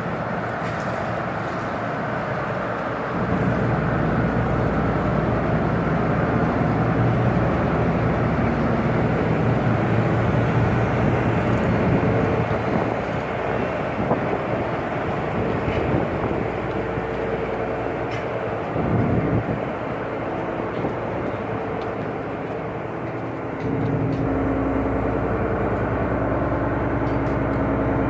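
Steady rumble of a tanker's machinery with a low hum. The hum grows louder about three seconds in, dips briefly later, and steps up again near the end, as if a machine starts or changes load.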